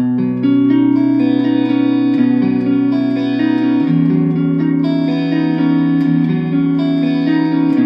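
Kramer electric guitar played through a Boss Katana Mini amp on its Brown channel, with the delay set halfway. It plays a slow line of long, ringing notes that overlap one another, with a lower bass note about four seconds in.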